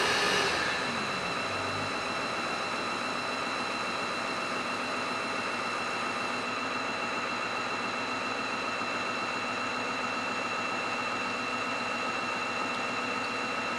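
Jimmy HW8 cordless wet-and-dry vacuum mop running its self-cleaning cycle in its base, with motor and brush roll spinning. It makes a steady whine that drops a little in level about a second in, then holds even.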